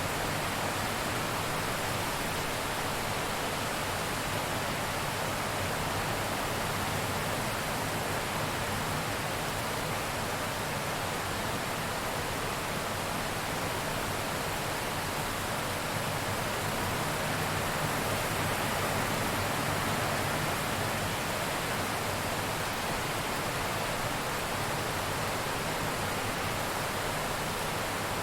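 Steady heavy rain falling, an even hiss with no breaks or claps of thunder.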